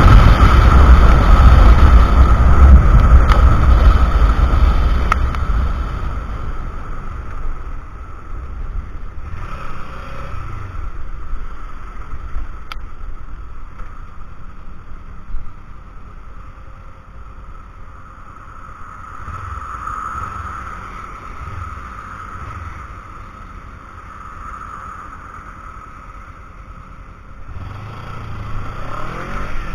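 Wind rushing over an action camera's microphone on a moving Kawasaki Ninja 300 motorcycle, heavy for the first few seconds, then easing and swelling again near the end. Under the wind, the engine note rises and falls now and then.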